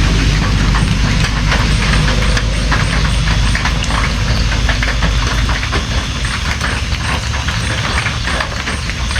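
Steady rain with many sharp, irregular drop impacts and a deep steady rumble underneath.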